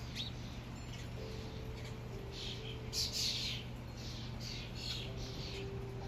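Birds chirping, a run of short high calls repeating every fraction of a second, loudest in a cluster about three seconds in, over a steady low hum.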